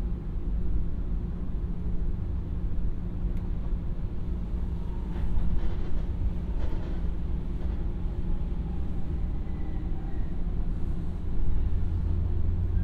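Cabin sound of a JR 115 series electric train running: steady traction-motor hum and wheel-on-rail rumble. An oncoming electric train on the adjacent track passes from about five seconds in, bringing a rush of noise and a faint whine, with another swell near the end.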